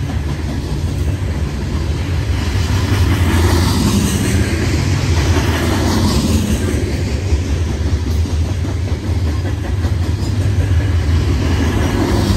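Loaded coal hopper cars of a long freight train rolling past: a steady, loud rumble of steel wheels on rail.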